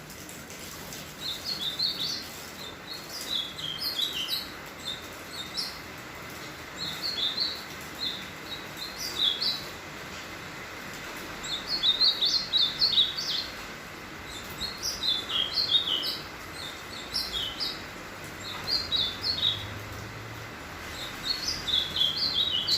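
Ultramarine grosbeak (azulão) singing: short warbled phrases of quick high notes, repeated every few seconds with brief pauses between. The bird is a male near the end of its moult.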